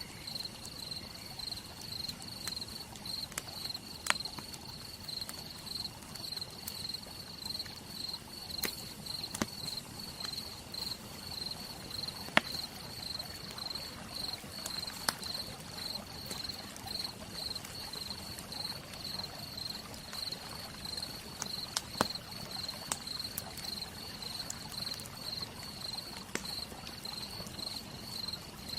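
Campfire crackling, with scattered sharp pops a few seconds apart over a low, even hiss, while insects chirp steadily in a fast, even pulse.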